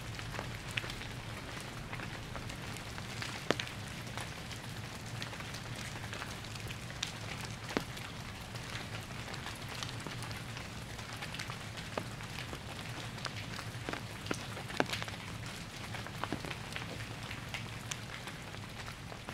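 Steady rain falling, with frequent sharp ticks of single drops striking a nearby surface.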